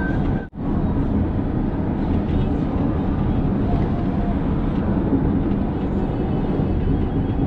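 Steady road and tyre noise inside the cabin of a Toyota Highlander Hybrid driving at speed on the highway. The sound cuts out briefly about half a second in.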